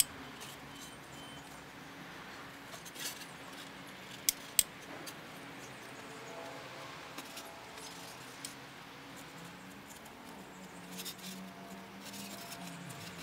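Scattered light clicks and taps of small objects being handled, with two sharp clicks in quick succession about four seconds in.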